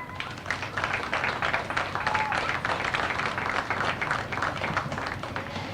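Crowd applauding: many hands clapping in a dense patter that thins out near the end.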